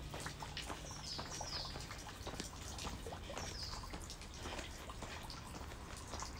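Small birds calling in short, high, downward-sliding chirps, in pairs about a second in and again midway, over a steady low rumble. Light irregular taps of shoes landing on a dirt path during jumping jacks.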